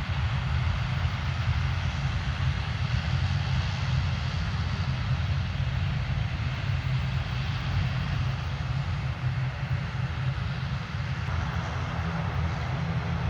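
Airliner engines running: a steady rumble and hiss that grows brighter, with faint steady tones added, near the end.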